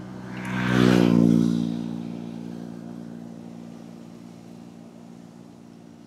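A motor vehicle passes close by on the road. Its engine hum is loudest about a second in, then fades away slowly over several seconds.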